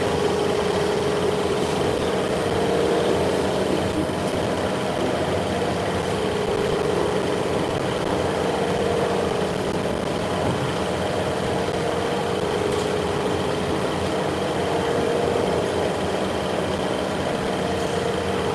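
A machine running steadily: a constant hum with a mid-pitched tone that slowly swells and fades, and a faint high whine above it.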